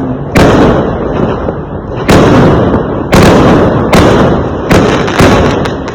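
Fireworks going off: about six loud bangs in quick, uneven succession, each trailing off in a rumbling echo.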